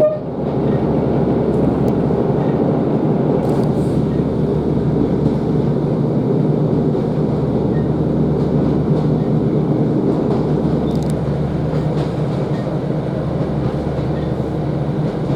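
Steady drone heard inside a Class 150 Sprinter diesel multiple unit: its underfloor diesel engine running and the wheels on the rails, with a few faint clicks.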